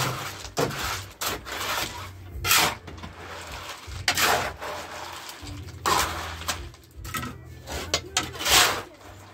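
Repeated scraping strokes of a tool working wet gravel-and-tile-adhesive mix into a form, at an uneven pace with short pauses between strokes.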